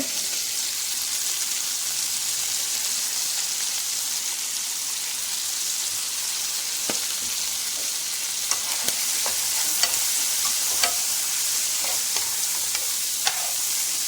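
Chicken pieces sizzling in a hot pot as they brown: a steady high hiss, with occasional clicks of a utensil stirring them from about halfway on.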